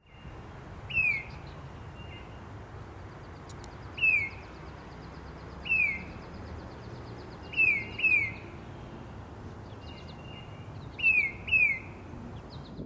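Tufted titmouse calling: loud, clear whistled notes that slide downward, given singly or in quick pairs, seven notes in five bursts a few seconds apart. Fainter high chirps and a short faint trill from other birds sound in between.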